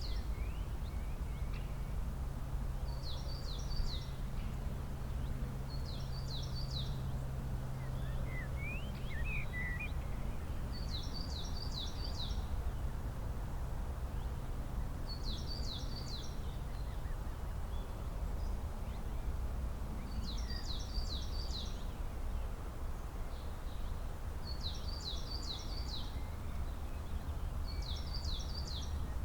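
A songbird repeating a short, high-pitched phrase of three to five quick notes every few seconds, with a few fainter chirps between. Beneath it runs a steady low rumble.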